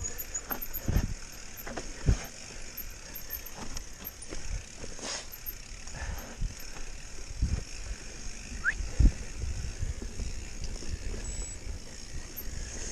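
Mountain bike being ridden over a rough trail: irregular knocks and rattles from the bike over steady rushing noise. A short rising squeak comes near the end.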